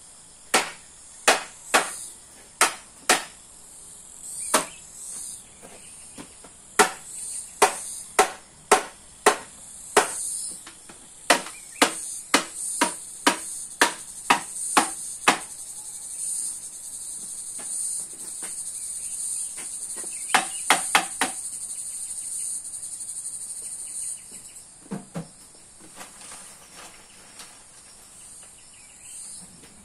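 Sharp knocks or chopping blows struck in quick runs, about two a second, pausing for a few seconds midway and returning briefly later. Under them runs a steady high chirring of crickets or other insects.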